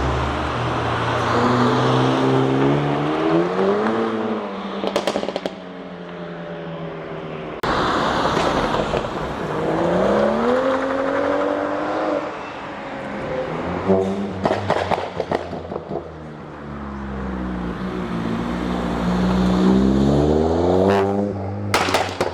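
Car engines revving hard as cars pull away one after another, three rising runs through the gears. Each run ends in a burst of exhaust crackles and pops as the throttle is lifted.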